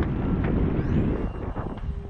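Wind buffeting the microphone in gusts, a loud rumble low in pitch.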